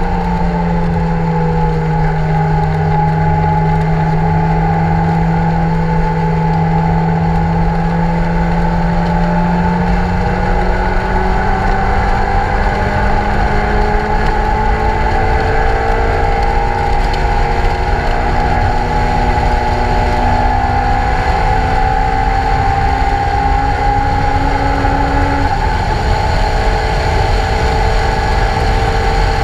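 Lotus Elise 111R's Toyota 2ZZ-GE four-cylinder engine heard from the open cockpit at speed, over heavy wind and road noise. Its note holds steady for about ten seconds, then climbs slowly for about fifteen seconds before dropping suddenly near the end.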